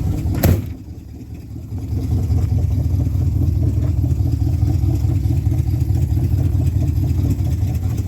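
An old vehicle's engine idling after a cold start, with a low, steady running pulse. There is a sharp knock about half a second in, and the sound drops away for a moment before the steady idle comes back up about two seconds in.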